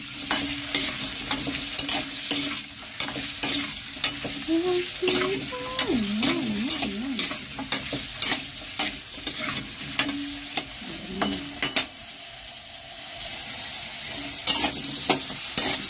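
Potato and carrot chunks sizzling in hot oil in a wok, with a metal spatula scraping and clinking against the pan as they are stirred. The stirring eases off briefly near the end, then resumes.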